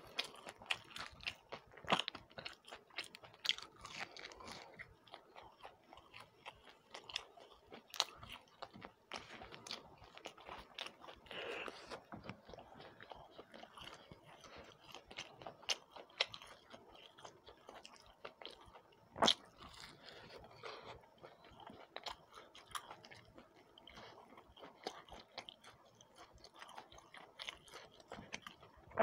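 Close-miked chewing and crunching of fried snacks, crisp pakoda and deep-fried kakra pitha, with crackles and wet mouth sounds throughout. One sharper crunch about two-thirds of the way through is the loudest.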